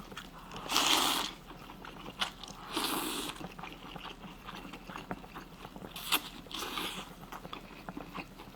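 Close-miked chewing of hotpot beef slices, with many small wet mouth clicks. Four louder airy bursts come about a second in, about three seconds in, and twice just past six seconds.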